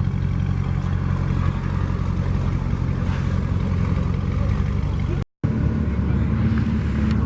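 A car engine idling steadily with a low rumble. The sound cuts out for a moment about five seconds in, then the idle carries on.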